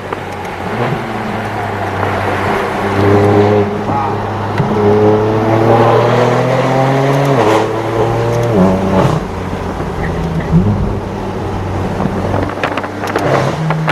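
Straight-piped BMW M4 F82's twin-turbo inline-six running while driving, its exhaust note climbing slowly through a gear and dropping at an upshift about halfway through, then changing again shortly after.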